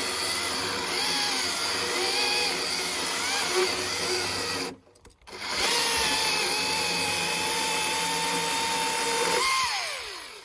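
Husqvarna T535i XP battery chainsaw's electric motor whining as it cuts through a hardwood log, the pitch dipping and wavering under load. It stops briefly just before halfway, starts again and runs steadily, then winds down with a falling whine near the end.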